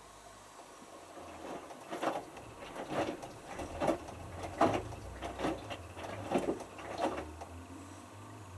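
Hotpoint Futura washing machine drum tumbling a small wet load of t-shirts. The water and clothes slosh and swish in a rhythm of roughly one surge a second, then the drum stops near the end.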